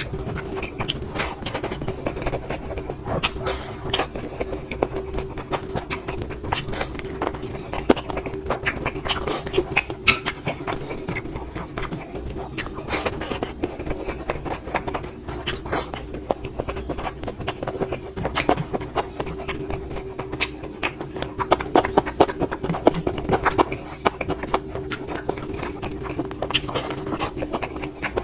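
A person eating: wet chewing and lip-smacking clicks in quick irregular succession, over a steady hum.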